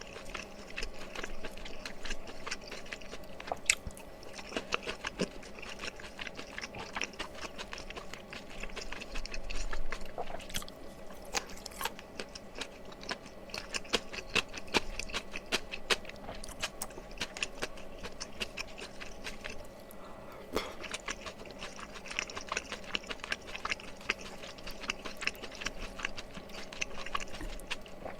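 Close-miked chewing of mala tteokbokki (spicy Korean rice cakes), with mouth sounds and many short clicks throughout.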